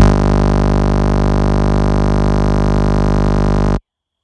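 A loud, steady electronic buzz with a low, many-toned hum, starting abruptly and cutting off abruptly after nearly four seconds; it is the unexplained buzzing the witness heard on the phone's audio while filming the lights.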